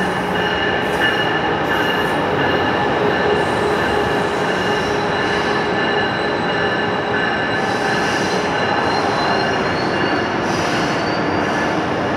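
Amtrak Acela Express electric trainset rolling into the station past the platform, a steady rumble of the passing cars with a continuous high-pitched squeal. A faint rising whine comes in over it late on.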